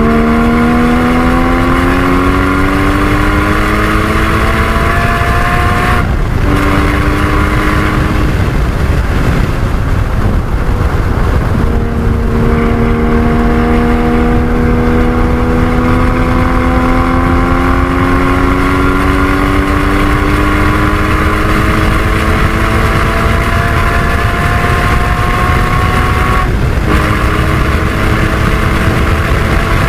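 Porsche 981 Cayman GT4's flat-six engine pulling hard, its pitch climbing steadily through the revs, with a quick upshift and drop in pitch about six seconds in and again near the end. Around the tenth second the engine eases off before a long climbing pull; road and wind noise run underneath.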